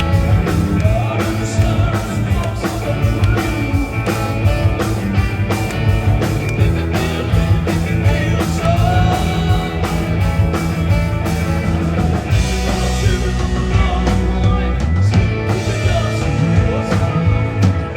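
Rock band playing loudly with a steady drum beat.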